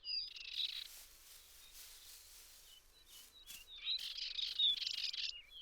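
Small birds chirping and twittering in quick, high, short calls, a cluster at the start and another busier one from about four seconds in.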